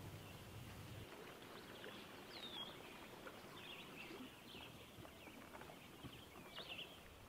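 Faint outdoor ambience with small birds chirping and calling here and there, short high chirps scattered through.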